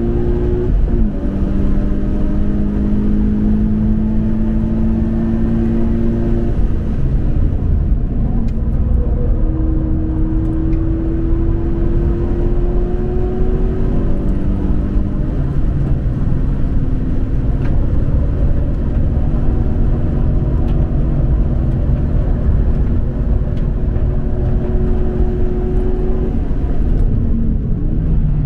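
Toyota 86 flat-four engine under hard acceleration on a racetrack. Its pitch climbs slowly for several seconds at a time and falls back a few times as the gears change or the throttle lifts, over a constant low rumble of road and drivetrain noise.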